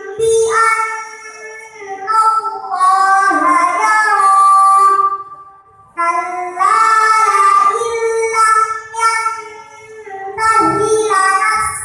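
A girl's voice reciting the Qur'an from memory in a melodic chant, holding long notes, with a short pause for breath about five seconds in.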